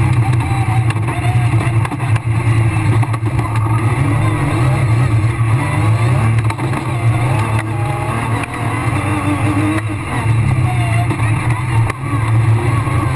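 Rally car's engine running hard under load, heard from inside the cabin, with brief dips in the engine note a few times as the driver lifts or changes gear on a loose, muddy stage.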